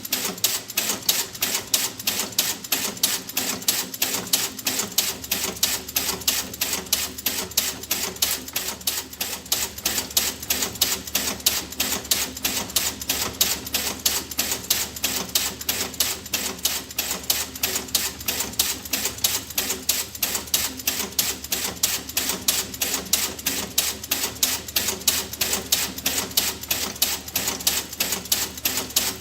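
Steady, rapid mechanical ticking, about four or five sharp clicks a second, with no change in pace.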